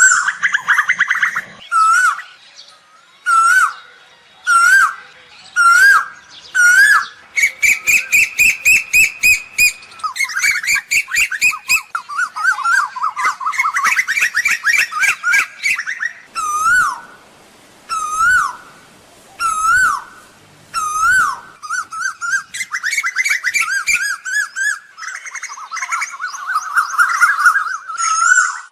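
Asian koel calling: short rising calls repeated about once a second, alternating with quicker runs of higher notes at about four a second.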